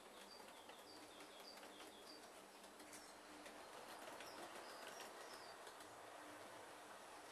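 Near silence with faint birds chirping: short high notes repeated every half second or so, over a low hiss.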